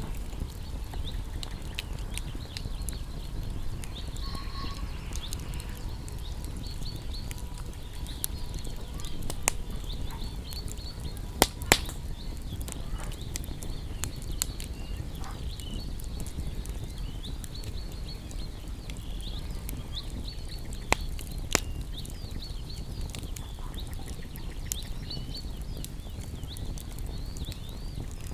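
Small birds chirping continuously in short, high notes over a wood fire crackling, with a handful of sharp pops from the fire, the loudest coming in two quick pairs.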